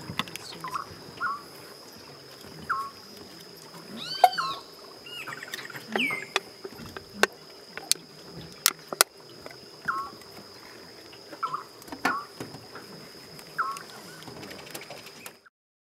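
Wild birds calling: short falling chirps repeated every second or two, a few higher arching calls, and several sharp clicks over a steady high whine. The sound cuts off abruptly shortly before the end.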